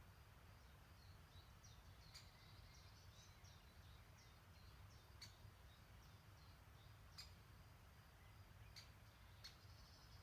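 Faint birdsong at a woodland stream: a quick twittering of short high chirps in the first few seconds, and a handful of sharp single call notes spaced a second or two apart. A low steady rumble runs underneath.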